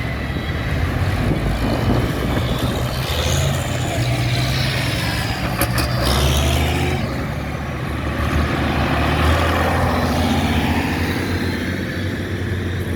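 Heavy vehicle engines, tractors and lorries, running past in a procession, with a steady low rumble and engine notes that rise and fall as they go by. A brief click near the middle.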